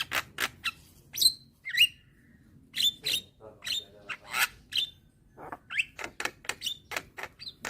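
Young white-eyed jalak kebo (Javan myna) calling: a fast, irregular chatter of sharp clicks and short chirps, some sliding quickly in pitch, with a brief pause about two seconds in.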